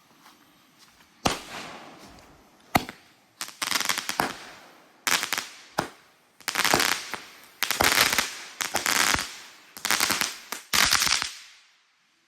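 A 7-Shot Thunderdome aerial firework cake firing: sharp bangs, then a string of loud crackling bursts about one a second for some eight seconds. One of the shots bursts on the ground instead of in the air.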